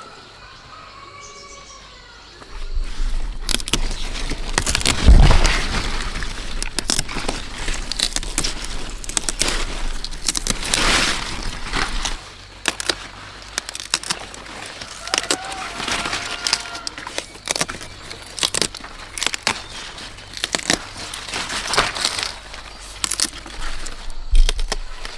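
Plant leaves and stalks rustling and crackling, with sharp cracks and snaps, as vegetation is handled during a harvest; it starts abruptly a few seconds in. A rooster crows faintly at the start and again about two thirds of the way through.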